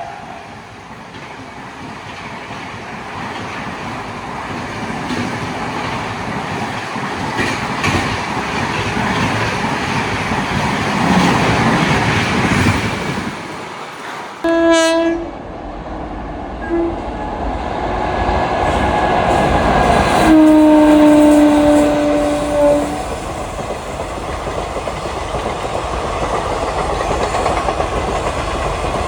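A train running past on the track with a steady rumble and wheel clatter. Its horn sounds a short blast about halfway through and a longer blast a few seconds later that drops slightly in pitch.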